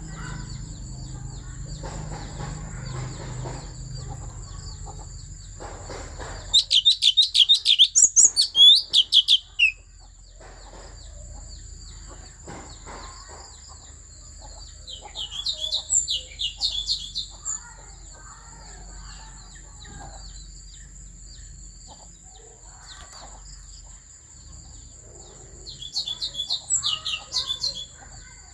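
Thanh tước songbird singing in three loud bursts of rapid, high, ringing notes, about eight seconds apart, with quieter twittering in between, over a steady high-pitched whine.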